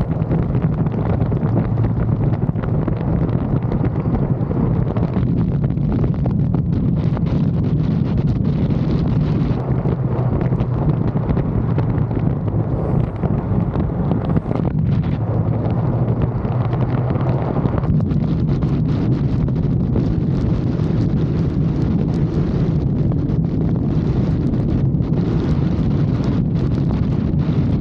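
Motorcycle riding at a steady speed: a constant low engine drone under heavy wind buffeting on the microphone.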